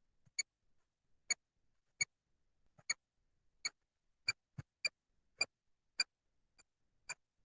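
A run of short, identical electronic clicks from a ghost-hunting gadget, about one every 0.6 to 0.8 seconds, bunching closer together about halfway through, with silence between them.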